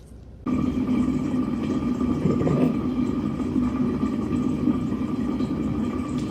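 A steady mechanical hum at one constant pitch, starting abruptly about half a second in.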